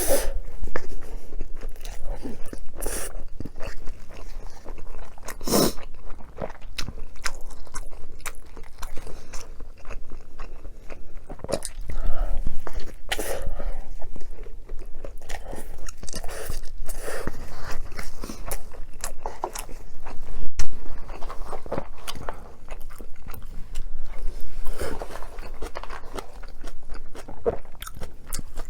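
A person eating close to the microphone: irregular chewing and biting, with many sharp clicks and a few louder bites.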